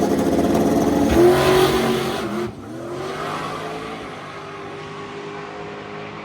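Car engine revving loudly, its pitch rising about a second in; about two and a half seconds in it drops suddenly to a quieter engine running steadily.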